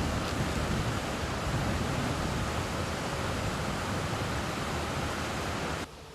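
Steady rushing of flowing creek or river water, with some low rumble. It cuts off abruptly near the end, leaving a much quieter background with a faint low hum.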